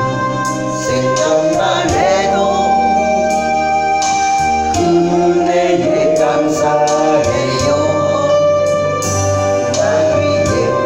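Gospel praise music: held keyboard or organ chords with voices singing.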